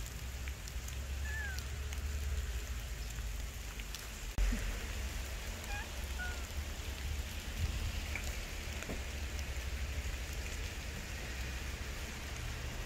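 Steady hiss of light rain falling outdoors, over a low rumble. A few faint short chirps come through, and a single bump sounds about four seconds in.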